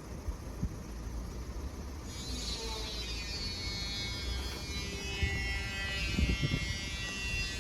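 Machinery at an industrial estate starting up about two seconds in: a high-pitched buzzing whine with many overtones, dipping slightly in pitch and then holding steady.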